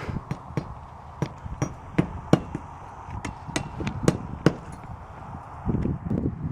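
Irregular sharp knocks and taps from roofing work, about two or three a second, with a quicker cluster near the end, over a steady background hum.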